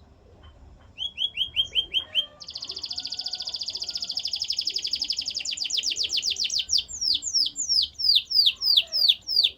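Male canary singing in tours: after a quiet first second, a short run of repeated falling notes, then a fast, even trill, then a slower series of loud falling sweeps.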